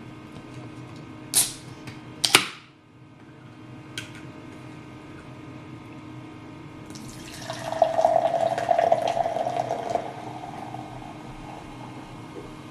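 Two sharp knocks early on, then water running for about three seconds starting some seven seconds in, over a low steady hum.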